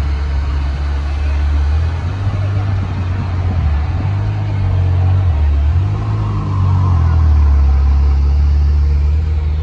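Car engine running with a deep low rumble, its pitch shifting about halfway through and the sound growing louder about seven seconds in.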